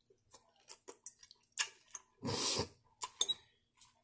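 Close-up chewing of a crunchy salad with croutons and cucumber: a string of sharp crunches and clicks, with one louder breathy rush about halfway through.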